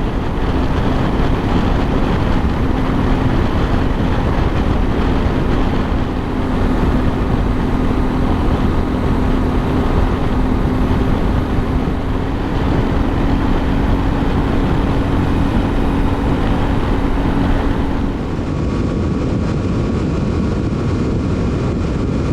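Yamaha Ténéré 700 parallel-twin engine running at a steady cruising speed on the highway, under heavy wind rush on the microphone. The engine's steady drone changes and eases near the end.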